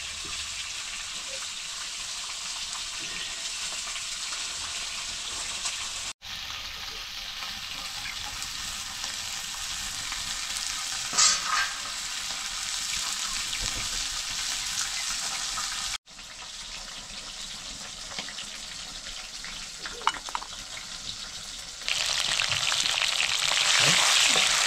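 Food sizzling in hot oil in a cooking pan, with occasional scrapes and knocks of stirring. The sizzle grows louder near the end.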